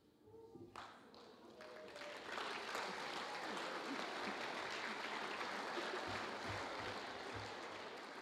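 Audience applauding, building up over the first couple of seconds, then holding steady before tapering off near the end.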